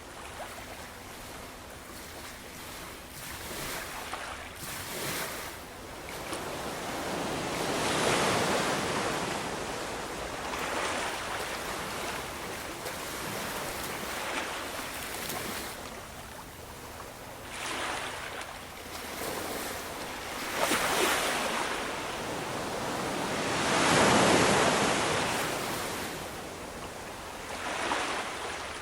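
Ocean waves breaking and washing in, in slow surges: the loudest swells come about a quarter of the way in and again a little past three quarters.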